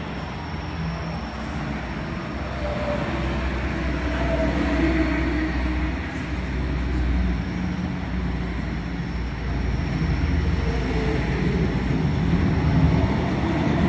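Power grinder grinding a steel motorcycle brake disc into a knife blank: a continuous grinding noise whose pitch wavers as the tool is pressed into the metal.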